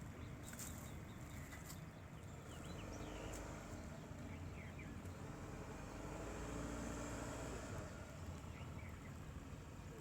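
Ford Endeavour's 2.0-litre diesel engine running as the SUV crawls over rough off-road ground with the rear differential locked; the engine note swells a little twice.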